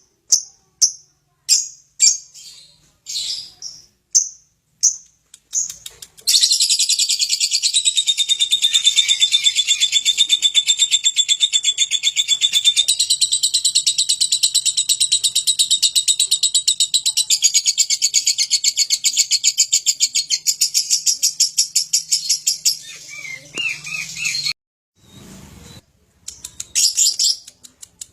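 Lovebird calling in short, high chirps, about two a second. It then breaks into one long, fast, unbroken high trill that runs for about eighteen seconds, and gives a few more chirps near the end.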